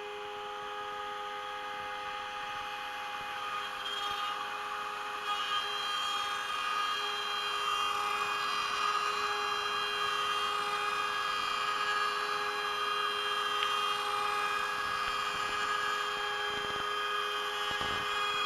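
CNC router spindle running with a steady high whine of several tones while a 3.175 mm end mill cuts 18 mm beech plywood. It grows louder and hissier about four to five seconds in.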